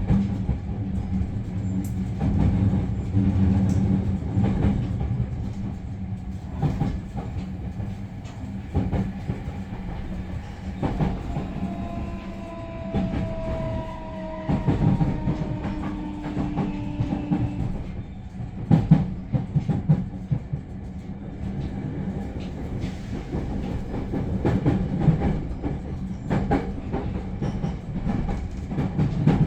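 Cabin running noise of a JR Central 315 series electric train at speed: a steady low rumble broken by irregular wheel clicks over the rails. A faint tone slides slightly downward in the middle.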